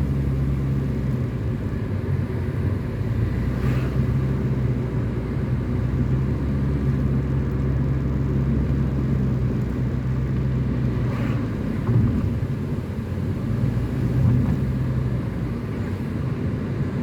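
A car driving on the open road, heard from the car itself: a steady engine hum with tyre and road noise, and two faint brief swishes about 4 and 11 seconds in.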